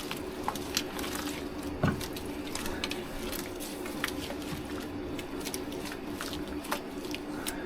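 Crushed malt being mixed into hot water to mash in: soft wet squishing with scattered small clicks and crackles, over a low steady hum.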